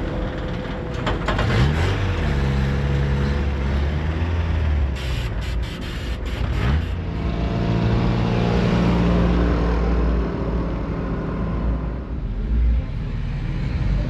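Truck engines running with a heavy low rumble, the revs rising and falling a couple of times.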